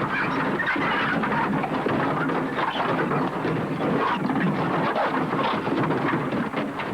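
An elephant cow attacking a vehicle with her tusks: a dense, continuous noise of crashing and scraping with many short knocks, as the vehicle's body is battered and crumpled.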